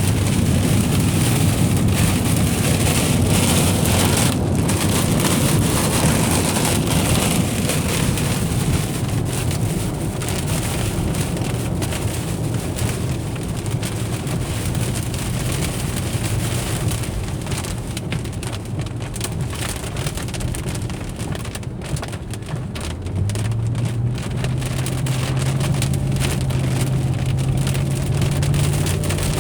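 Rain pattering on a moving car while it drives, with steady road and engine noise inside the cabin. About three-quarters of the way through, the engine's low hum steps up in pitch as the car speeds up.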